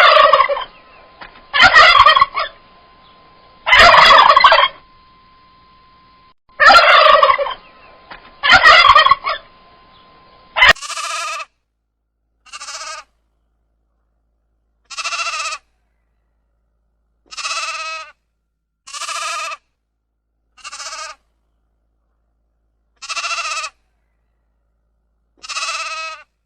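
Domestic turkey gobbling, five loud calls about two seconds apart. About eleven seconds in it gives way to a sheep bleating, eight shorter, quieter bleats spaced a couple of seconds apart.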